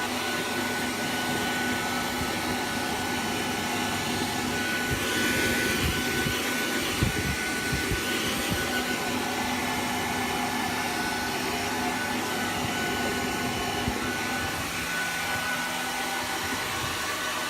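Hair dryer blowing steadily with a thin high whine, with a few short knocks about seven seconds in.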